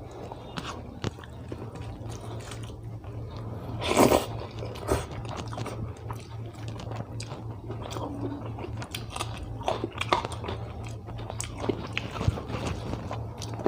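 A person chewing and biting food close to the microphone: wet, irregular mouth sounds with crunchy bites, the loudest crunch about four seconds in. A steady low hum runs underneath.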